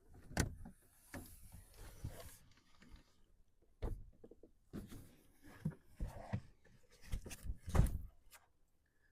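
Someone moving about in the back of a pickup truck while getting dressed and climbing out: rustling at first, then a string of irregular knocks and thumps, the loudest near the end.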